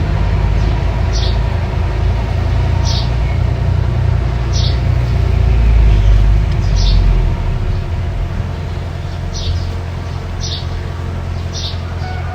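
Mini bulldozer's diesel engine running with a steady low rumble, heavier for the first half and then easing to a lower, even level. A bird chirps repeatedly above it, about every second or so.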